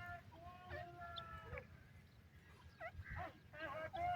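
Francolin (teetar) calling: a series of harsh, pitched call notes, with a drawn-out note about a second in and a quick run of short notes near the end.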